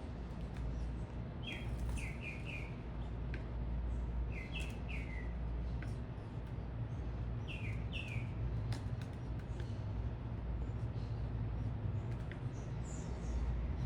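Small birds chirping at a feeder: short falling chirps in quick clusters of two or three, repeated every few seconds, over a steady low rumble of city traffic.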